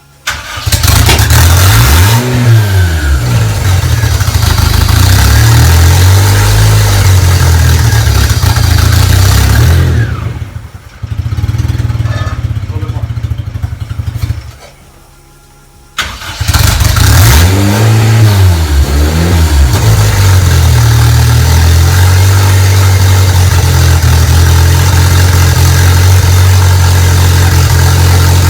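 Honda K-series four-cylinder engine swapped into a Toyota MR2, running on a quick untuned setup. It fires up and is blipped with the throttle, dies about ten seconds in, is started again about sixteen seconds in, revved twice, and settles into a steady idle.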